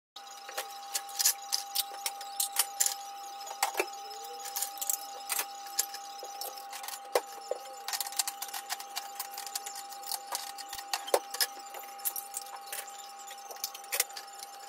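Irregular clatter of household items being handled and put away during tidying: many sharp knocks and clicks of objects set down, with a faint steady whine underneath.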